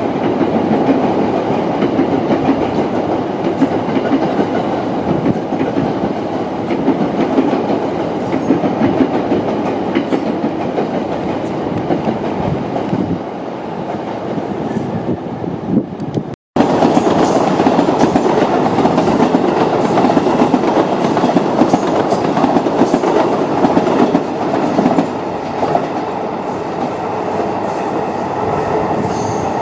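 Electric commuter trains running on the tracks, a steady rumble with the clatter of wheels over rail joints. The sound drops out for an instant about halfway through, then carries on.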